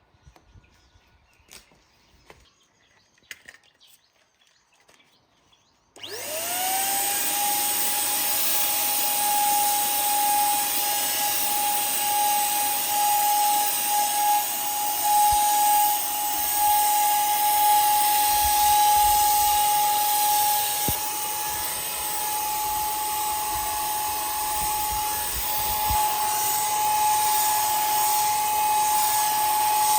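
A faint tick or two, then about six seconds in a handheld electric power tool spins up with a quickly rising whine. It settles into a steady high-pitched whine with a hiss and runs on.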